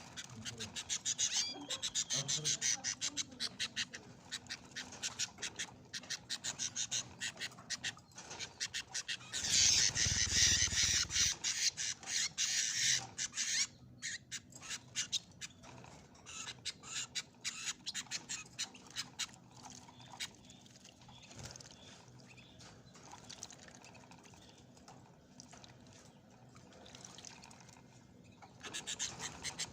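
Canaries and goldfinches bathing in a water dish: rapid flicks and splashes of water from their wings. There is a louder burst of splashing for a few seconds about ten seconds in.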